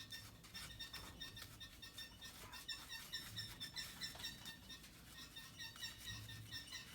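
Rag wiping the disassembled B&G Series 100 circulator pump parts clean with WD-40, giving a run of short, faint, high squeaks, several a second.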